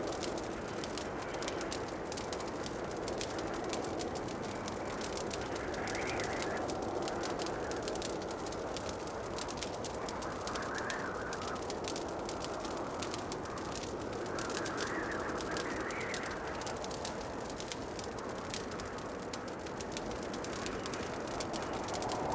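Wood fire crackling in a fireplace, with many small pops and snaps over a steady low rush that swells briefly several times.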